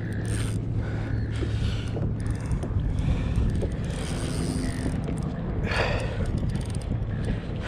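Wind buffeting the microphone on a kayak, over a steady low hum, with a brief louder rush of noise about six seconds in.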